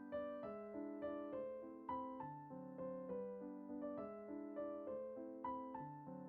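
Soft background piano music: a gentle melody of notes struck about twice a second over a held accompaniment.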